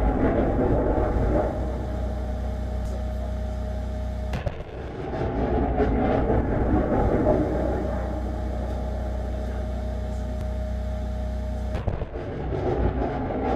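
Heavy truck's diesel engine running steadily with a constant low drone and road noise, briefly interrupted twice.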